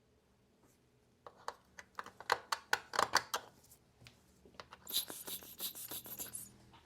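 Tools and hands working on a robot vacuum's plastic housing: a quick run of small clicks and taps, then a short scraping rub about five seconds in.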